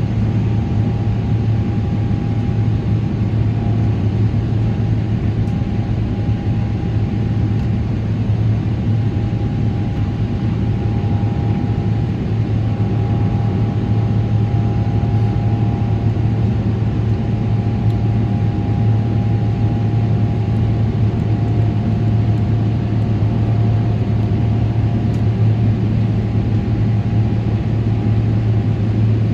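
Steady cabin noise of a Boeing 777-300ER heard from inside the passenger cabin: the low drone of its GE90 jet engines and airflow, with a faint constant whine above it, not changing over the whole stretch.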